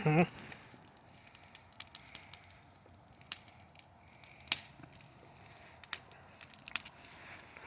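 Bonfire crackling, with sparse sharp pops, the loudest about four and a half seconds in. A brief wavering animal-like call sounds right at the start.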